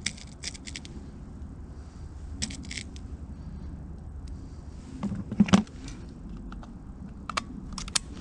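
Clicks and rattles of air guns and gear being handled between shooting stations, with one louder, sharp double knock about five and a half seconds in.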